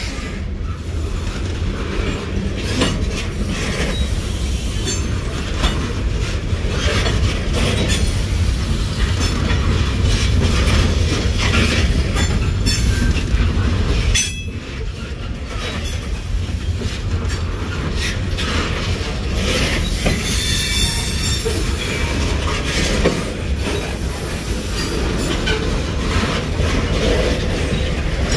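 Loaded coal train's cars rolling past: a steady low rumble with rapid rail-joint clicks, and metal wheel squeal rising about two-thirds of the way through.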